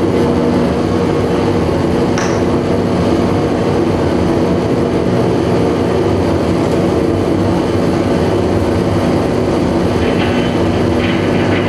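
Live noise music from an experimental ensemble: a loud, unbroken wall of dense noise over held droning tones, with crackling higher sounds near the end.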